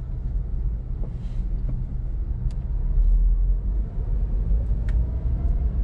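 Steady low rumble of a car's engine and road noise heard from inside the cabin, with a few faint small clicks.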